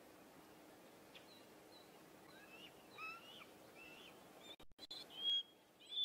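Bird calls: a string of short high chirps and whistles, each a quick rise or fall in pitch, growing louder, with two stronger whistled notes near the end. The audio cuts out briefly a little after the middle.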